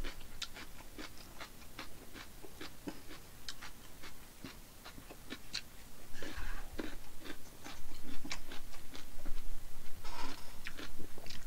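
Close-miked chewing with many small wet mouth clicks, a person eating jjajangmyeon (black-bean-sauce noodles); two louder, noisier bursts come about six and ten seconds in.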